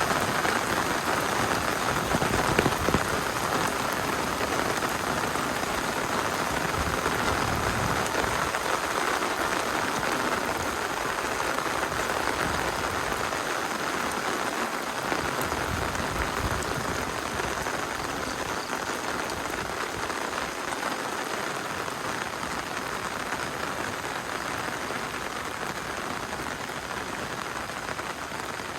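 Steady rain falling, a dense patter of many drops, growing gradually a little quieter toward the end.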